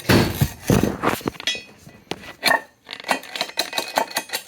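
A screwdriver and hammer clinking, tapping and scraping against an intake manifold runner, chipping out lodged casting sand: irregular sharp metallic clinks and knocks.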